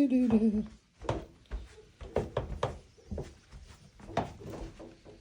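A short wavering vocal sound at the start, then irregular knocks and thuds as a heavy boxed stove is carried and bumped about.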